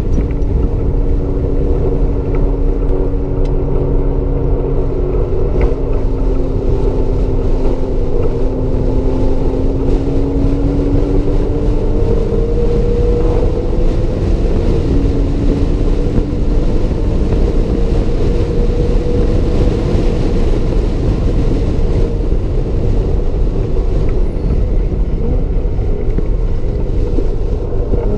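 2007 Porsche Cayman S's 3.4-litre flat-six engine running at speed, heard from inside the cabin over a steady rush of wind and road noise. Its pitch holds high and drifts slowly upward, with a short change in tone about halfway through.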